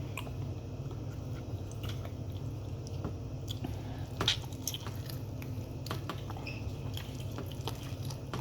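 Close-up chewing with wet mouth clicks, with one sharper click about four seconds in, over a steady low hum.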